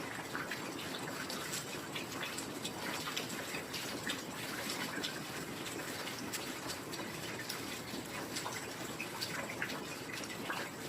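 Steady heavy rain, a constant hiss with many close drops pattering and dripping.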